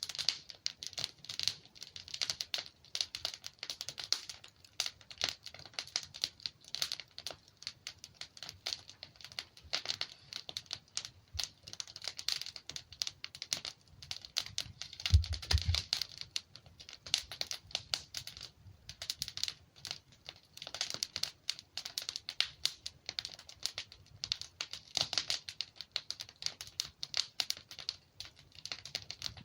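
Wood fire burning in a fireplace: logs crackling and popping in a dense irregular patter of sharp snaps, with a low thud about halfway through.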